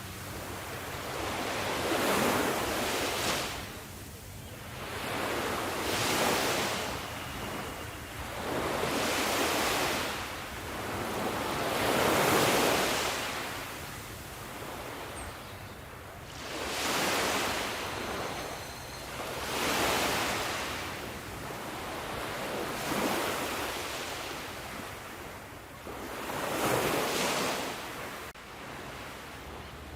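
Sea waves breaking and washing up on a shore, one surge swelling and fading about every three to four seconds.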